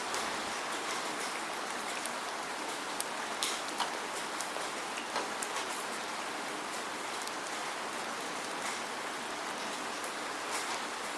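Steady rain falling, with individual drops ticking sharply here and there over an even hiss; no thunder.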